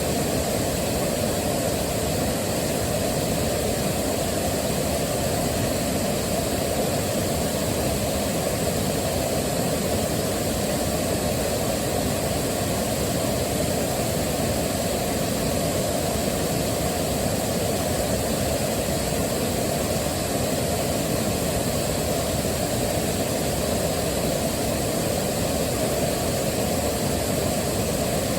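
Waterfall rushing steadily, an even, unbroken wash of water noise that is heaviest in the low and middle range.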